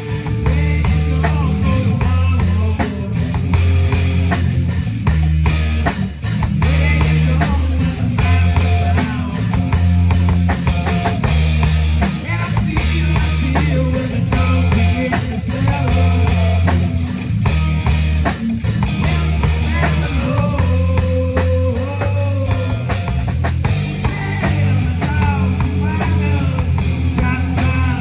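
Live rock band playing, with guitar, bass and drum kit keeping a steady beat.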